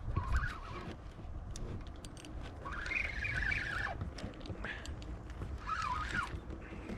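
Birds on the water calling four times in wavering calls, the longest lasting over a second at about the middle. Under them runs a low rumble of wind and water, with scattered small clicks and knocks from handling in the kayak.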